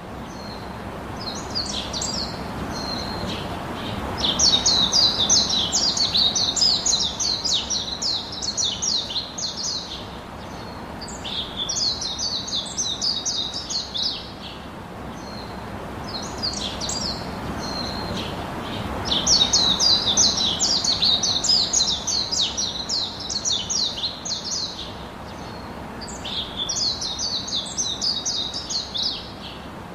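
Songbirds singing long, rapid twittering songs of quick high chirps, in bouts of several seconds separated by short pauses, over a steady low background hiss.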